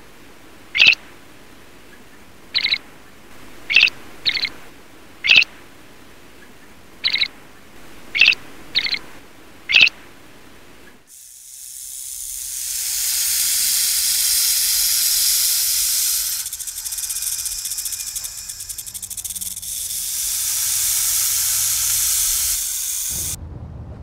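Paradise flycatcher giving nine short, high calls spaced irregularly over about ten seconds, then a snake hissing in one long, continuous hiss lasting about twelve seconds.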